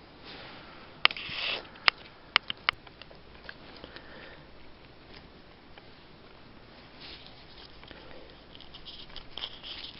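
Plastic action figures being handled: a few sharp clicks between about one and three seconds in, and light rustling near the end. A short breathy noise comes about a second in.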